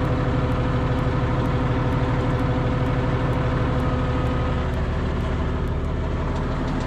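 Case 2670 tractor's turbocharged six-cylinder diesel engine running steadily, easing slightly in level about five seconds in.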